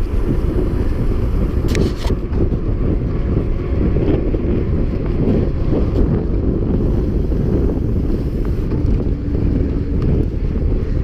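Heavy wind buffeting on the microphone of a camera carried on a mountain bike while riding, a steady low rushing, with a few sharp clicks about two seconds in.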